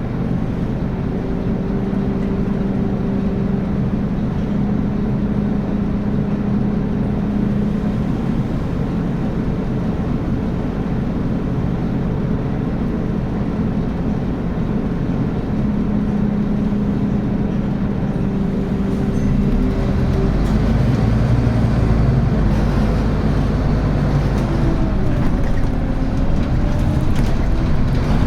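Scania N280UB city bus running, its diesel engine giving a steady drone. About two-thirds of the way in it gets louder, with more low rumble, as it pulls harder. A faint whine rises and falls near the end.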